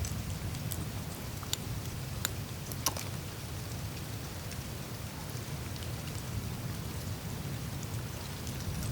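Melting glacier surface ice: scattered small sharp clicks and ticks, thickest in the first few seconds, over a steady low rumble of meltwater moving through the ice.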